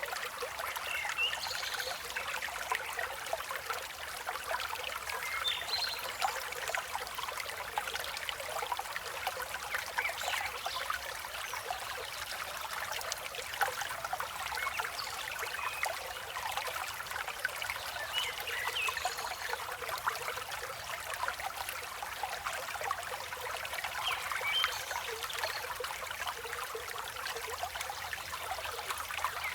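River water flowing steadily, a continuous babbling rush, with birds chirping here and there above it.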